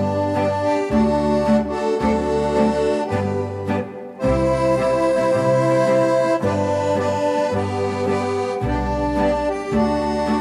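Accordion playing an instrumental passage of a folk song, held melody chords over changing bass notes, with a short break about four seconds in.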